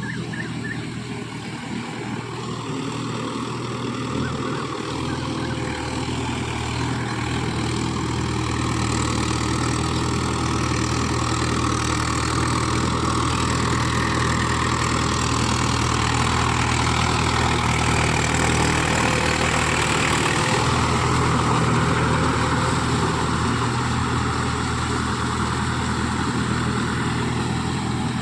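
Mahindra Yuvo Tech+ 575 DI tractor's four-cylinder diesel engine running steadily, growing louder from about eight seconds in and easing off slightly near the end.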